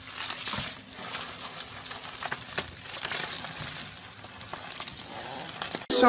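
Plastic tube rustling and crinkling in scattered small crackles as a small dog wriggles through it, over a faint steady hum that stops a little before the end.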